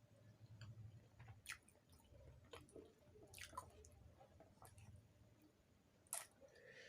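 A person quietly chewing puri with dum aloo potato curry: soft, wet mouth sounds with a few sharp clicks of the lips and tongue, the loudest near the end.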